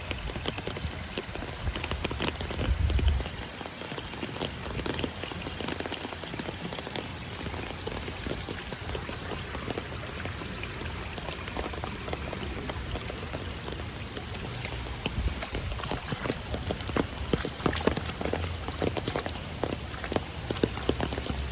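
Heavy rain falling steadily on pavement, a dense patter of drops, with a brief low rumble about three seconds in.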